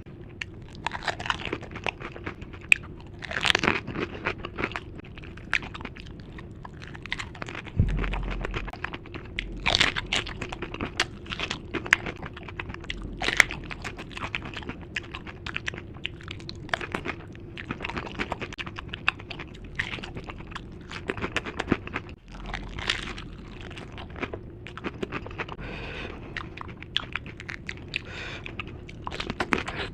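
Close-miked crunching and chewing of dahi puri, crisp hollow puris filled with yogurt. The crunches come irregularly with each bite, a few of them sharper and louder than the rest.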